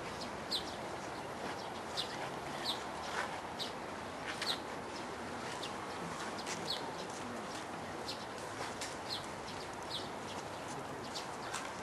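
Small birds chirping, short scattered chirps about once a second, over the steady background murmur of an outdoor crowd.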